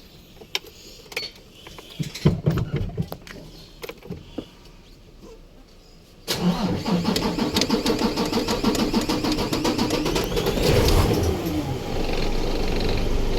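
A few scattered clicks and knocks, then the Isuzu 6WF1 common-rail diesel truck engine is cranked by its starter for about five seconds before it catches with a surge and settles into steady running. The long crank is the hard-starting fault this engine has.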